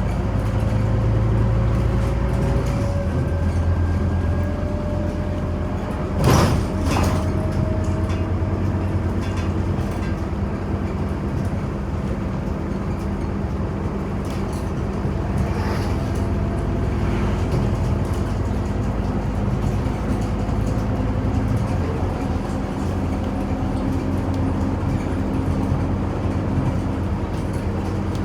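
Scania OmniCity city bus under way, heard from inside: a steady engine and drivetrain drone with a faint whine that slowly rises in pitch as it picks up speed. Two sharp knocks come about six and seven seconds in, the loudest moment.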